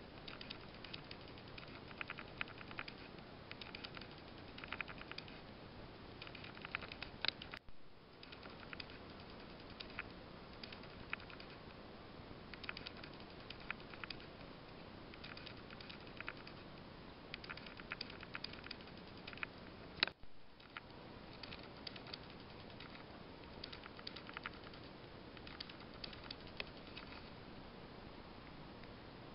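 Faint groups of light metallic clicks from a tinplate friction-driven toy bullet train's wheels running over the rail joints of O gauge track. The sound cuts out briefly twice, each time just after a sharper click.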